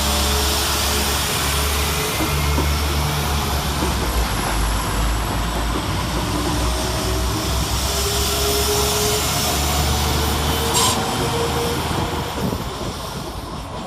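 West Midlands Railway Class 172 Turbostar diesel multiple units running through the station: a steady low engine drone with wheel-on-rail noise and a faintly shifting engine note. The sound fades away near the end.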